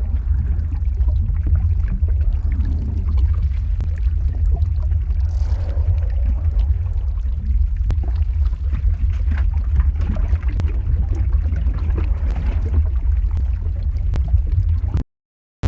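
Lava-flow ambience sound effect: a steady deep rumble with scattered faint crackles. It drops out to silence for about half a second near the end.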